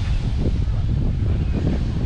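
Wind buffeting the microphone in a heavy, uneven rumble, over the wash of surf on the beach.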